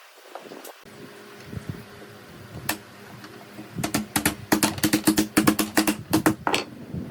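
A rapid run of sharp taps or knocks, about five a second, over a low steady hum. A single tap comes first, then the run starts about four seconds in and stops suddenly near the end.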